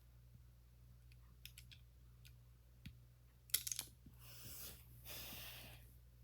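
Small hard plastic clicks: scattered single ticks, then a quick rattle about three and a half seconds in, which is the loudest moment. Two stretches of rustling follow. The sound fits Lego pieces and their packaging being handled.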